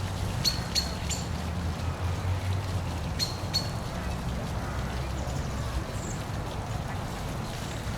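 Steady rushing of a park waterfall with a low rumble underneath, with a few short, sharp bird chirps about half a second to a second in and again about three seconds in.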